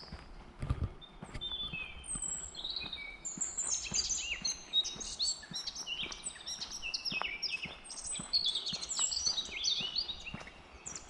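Several woodland songbirds singing and chirping at once: a dense run of quick, high notes and short glides, thickest from a few seconds in, over faint footsteps on a path.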